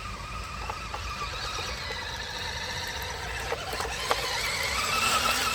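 Radio-controlled model car running with a high, squealing whine that grows louder and rises a little in pitch near the end, with a few short clicks.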